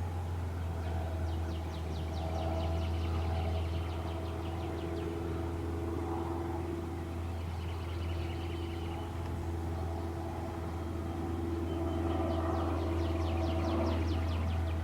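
Honey bee swarm buzzing over a steady low hum, with a small bird trilling a second or so in and again near the end.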